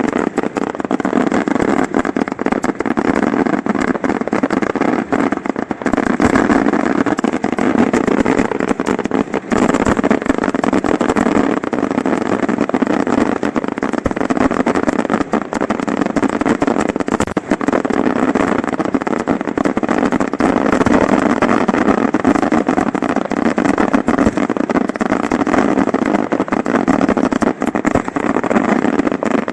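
Fireworks finale heard at close range: a dense, unbroken barrage of bangs and crackling, too many reports to count, keeping up a steady loud din throughout.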